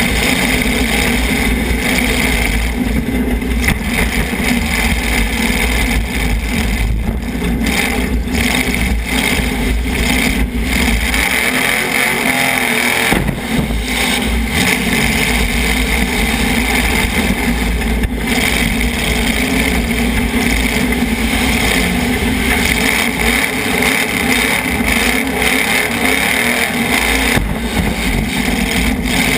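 Demolition derby car's engine running hard and revving, heard loud from on board the car.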